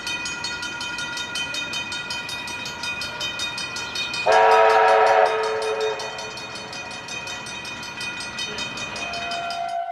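Train horn sounding one loud blast of about a second, a little under halfway through, over a steady high ringing tone that runs underneath.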